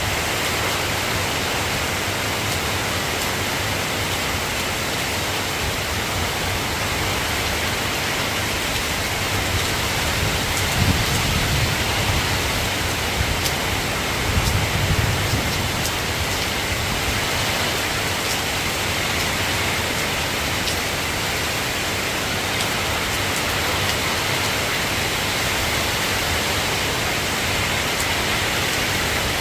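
Steady rain falling as an even hiss, with two low rumbles of thunder, about a third of the way in and again about halfway.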